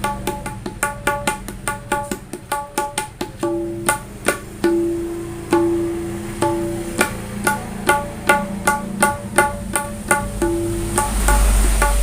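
Dangdut koplo 'tak' drum with a three-layer full-leather head, played in a fast rhythm of crisp, sharp strokes. Through the middle, several strokes ring on as a short held note, like a tabla dayan.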